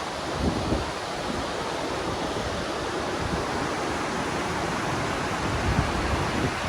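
Steady rushing noise with an uneven low rumble, heard aboard a moving excursion train car: wind over the microphone together with the running noise of the train.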